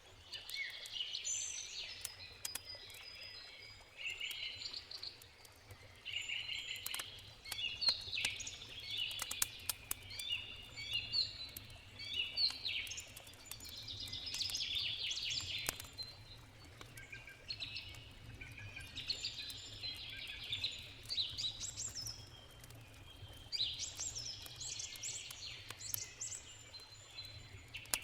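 Songbirds singing in repeated short, chirping phrases. Under them are scattered sharp crackles from a burning campfire and a steady low rush of a river.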